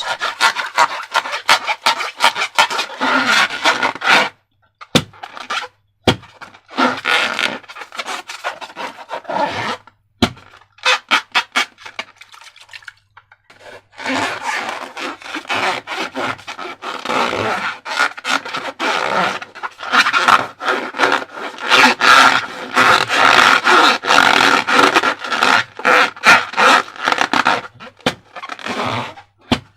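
Rubber balloons rubbed and squeezed in the hands with slime, making rapid rubbing strokes and squeaks, with short pauses, the longest about twelve seconds in.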